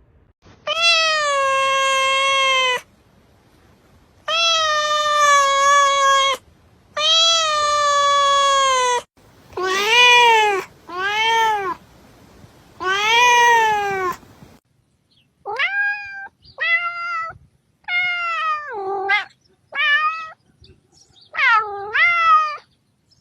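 Domestic cat meowing over and over. First come three long, drawn-out meows, then three shorter arched ones. About two-thirds of the way in, a quicker run of about seven shorter, higher meows follows, each falling in pitch.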